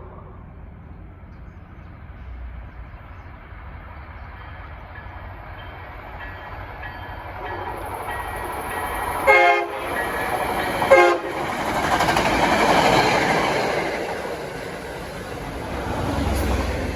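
A train approaching and passing, its rumble growing louder, with two short horn blasts about a second and a half apart around the middle, just before the loudest part of the pass.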